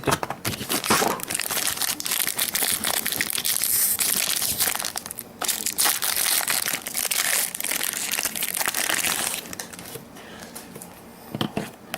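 Plastic wrapping crinkling and tearing as a trading-card pack is opened, with dense crackling for most of the stretch. It eases off about two seconds before the end, leaving a few light clicks.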